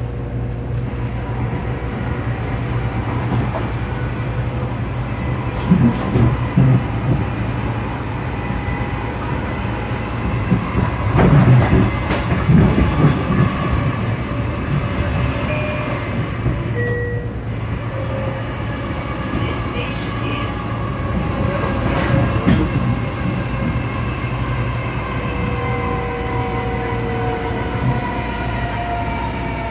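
Long Island Rail Road electric commuter train running at speed, heard from inside the car: a steady rumble with motor whine that slowly rises and falls in pitch. A few stretches of louder wheel clatter over rail joints come through, the strongest about a third of the way in.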